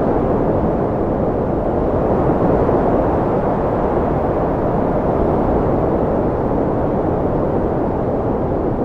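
Strong wind blowing steadily, a low rushing roar with gentle swells and no gaps.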